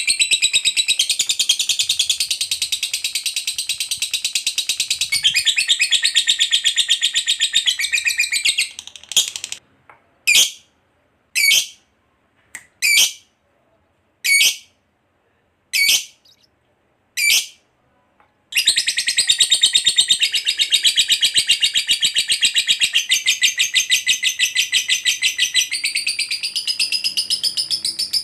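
Lovebird's long ngekek, a rapid, unbroken, high-pitched chattering trill. About eight seconds in it breaks off into a string of short single chirps about a second apart, then about eighteen seconds in the continuous chatter resumes.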